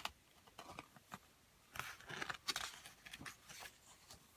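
Paper rustling and clicking as a page of a picture book is handled and turned, loudest in a short run of rustles about two seconds in.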